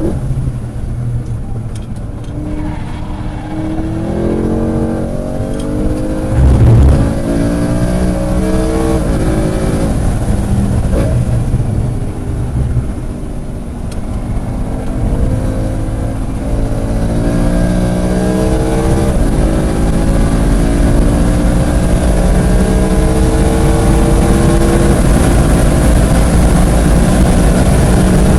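Sports car engine pulling hard on track, its pitch climbing through the revs and dropping at each upshift or lift, several times over. A brief loud low rumble cuts in about a quarter of the way through.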